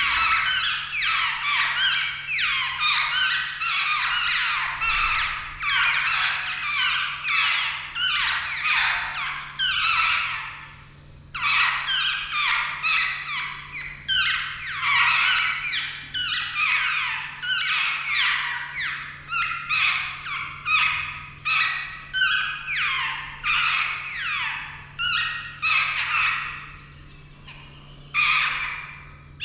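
Jungle babblers calling in a dense, overlapping run of short, rapidly repeated downward notes, pausing briefly about ten seconds in and again near the end.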